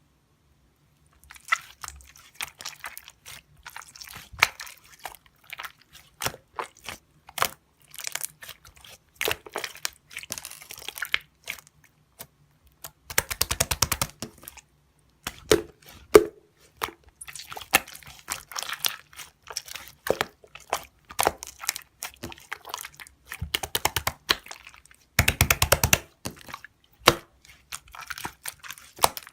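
Glitter slime being squished and pressed by hand, making many small wet clicks and pops. Twice, around the middle and again near the end, it gives a dense run of rapid popping.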